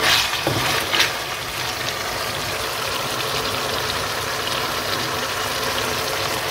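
Chicken pieces sizzling steadily in hot oil in a karahi, with a spatula scraping through them twice in the first second.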